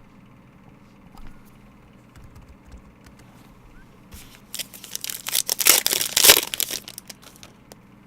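A sealed pack of baseball cards being torn open, its wrapper crinkling loudly for about three seconds, after softer rustles of cards being handled.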